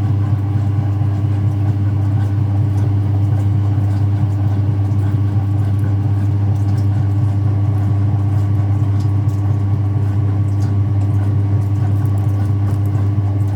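Speed Queen top-loading washing machine running with a steady, unchanging motor hum.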